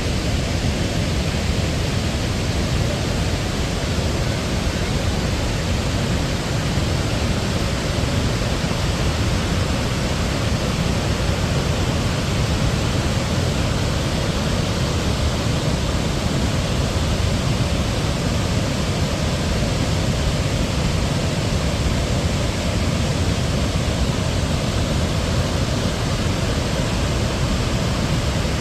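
Waterfall: a steady rush of falling water that keeps up without a break.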